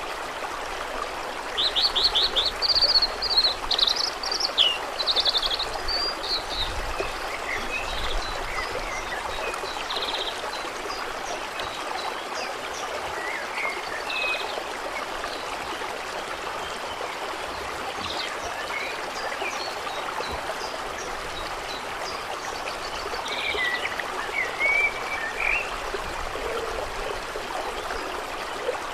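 Steady water ambience with songbirds over it. A burst of fast, high trilled song comes about two seconds in, scattered chirps follow, and another short phrase comes near the end.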